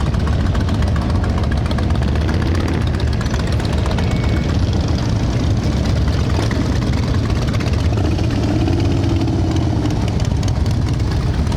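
Motorcycle engines running at idle and low speed, a loud, steady din of exhaust.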